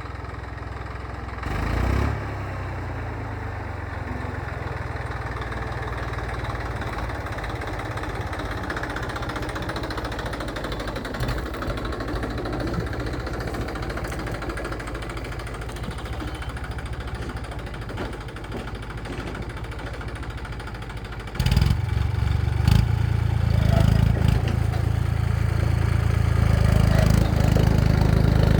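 Massey Ferguson tractor's diesel engine running steadily, with a short louder burst about two seconds in; about three quarters of the way through it gets clearly louder and stays so.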